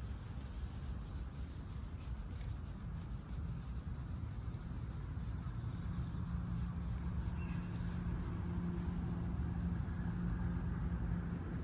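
A low, even outdoor rumble, joined about halfway through by the steady hum of an engine that keeps running.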